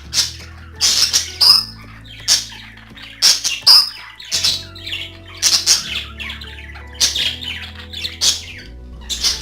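Budgerigars chattering and squawking in rapid short calls, over background music with held low chords.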